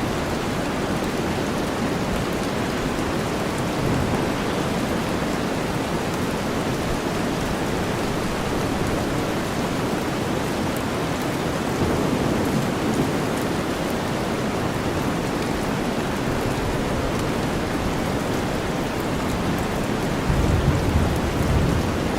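Steady rain mixed with deep white noise, an even hiss. A low rumble swells briefly about halfway through and again near the end.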